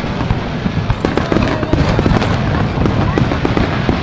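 Fireworks display: a dense, continuous crackle of many rapid pops from shells bursting, over a low rumble of booms.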